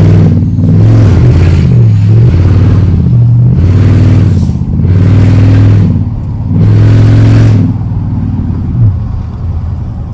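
Straight-piped pickup truck exhaust, loud, as the engine is revved hard in a string of bursts, its pitch climbing and dropping again and again. Near the end the revving stops and the engine settles to a lower, steadier drone.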